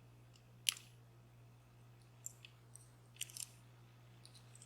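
A few small, sharp metal clicks as tools and the DOM Plura's pins and springs are handled during disassembly: one clear click about a second in and a quick cluster of clicks about three seconds in, over a steady low hum.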